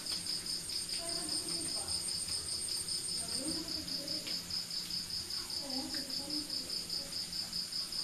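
Crickets chirping in a steady, even pulse of about five chirps a second, with a thinner high continuous trill above it. Faint, distant voices murmur underneath at moments.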